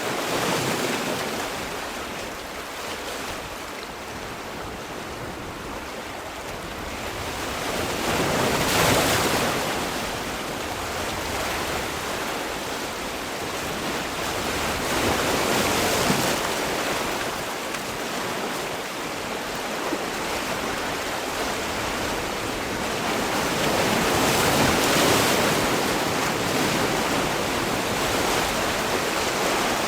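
Sea waves breaking and washing on the shore, a steady hiss of surf that swells louder as each wave breaks, about every seven to eight seconds.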